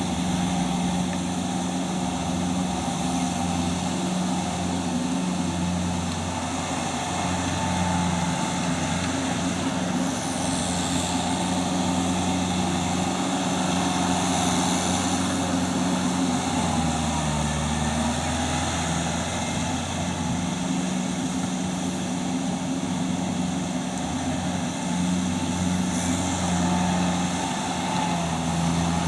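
Tractor engine running steadily under load, its note dipping briefly about halfway through before picking back up.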